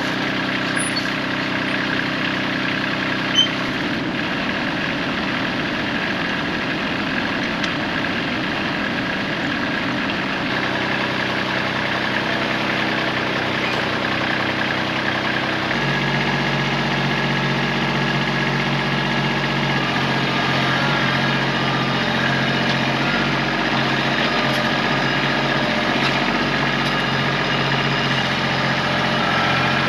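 Tractor engine running steadily, its speed shifting a few times: about four seconds in, about a third of the way through, and again about halfway. One sharp knock sounds near the start.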